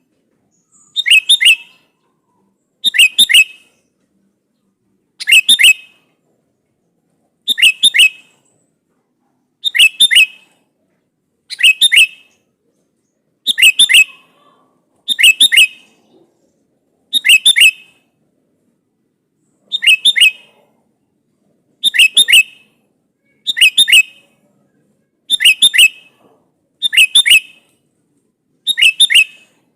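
Sooty-headed bulbul (kutilang) giving the same short, loud call phrase over and over, about once every two seconds. It is a territorial call to a rival.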